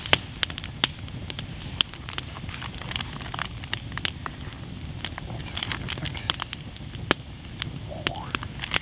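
Freshly lit wood campfire crackling, with frequent irregular sharp pops and snaps over a steady low rumble.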